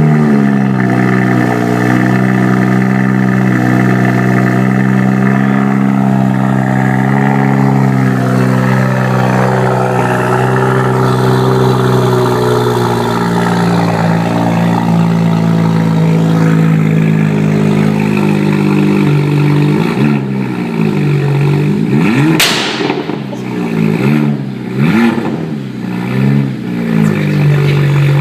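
2012 BMW 1M's twin-turbo inline-six, with a Meisterschaft GT exhaust, running at a steady high idle just after a cold start. Near the end it is blipped several times, rising and falling in pitch, with one sharp exhaust pop on the overrun before it settles back to idle.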